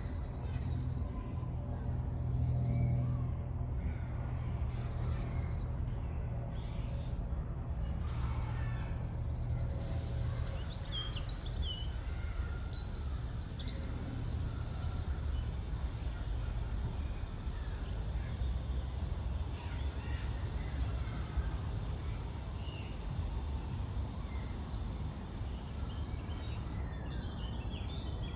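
Woodland ambience dominated by a steady low rumble of road traffic from a nearby high street, heaviest in the first few seconds. Brief songbird chirps and calls come through over it, mostly a third of the way in and again near the end.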